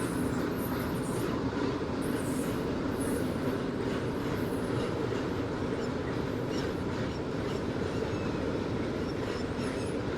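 An Indian Railways passenger train running past on the track, a steady rumble of wheels on rail with short high-pitched squeals here and there.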